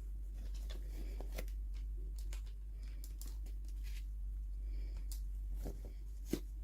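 Unboxing sounds of small toy packaging being handled: scattered light clicks and taps of plastic and paper, with one sharper click near the end, over a steady low hum.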